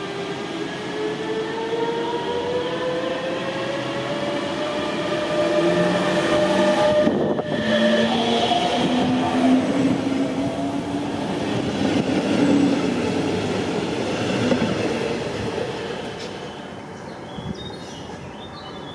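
A train passes, its motor whine climbing steadily in pitch over the first several seconds, then lower tones and wheel rumble, loudest in the middle and fading near the end.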